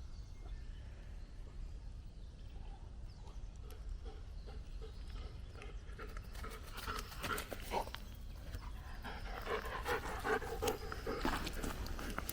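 Footsteps of a walker and a German Shepherd on the forest floor, with scuffs and crackles of leaf litter and twigs that turn busier and louder about halfway through, over a low steady rumble.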